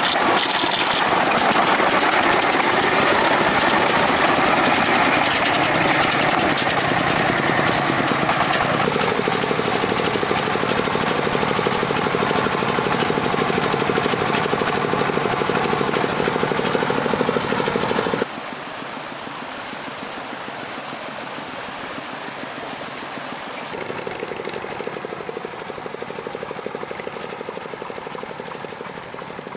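Engine of a three-wheeled farm truck running with a rapid knocking beat. It drops suddenly to a quieter level about eighteen seconds in.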